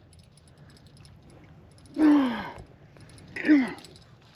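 A man's voice, two short falling groans or grunts of effort about two and three and a half seconds in, while straining against a big fish on the line.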